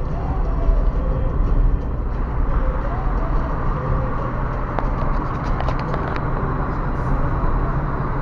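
A car driving along a road: steady engine and road noise, with a few brief rattles about five to six seconds in.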